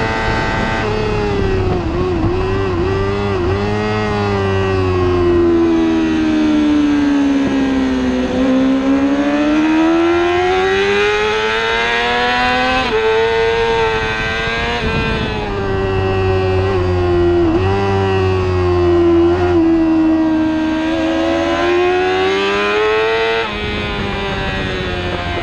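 Onboard sound of a superbike's engine at race pace. Its pitch falls and climbs again in long sweeps as the bike brakes and accelerates, with sudden steps in pitch at gear changes.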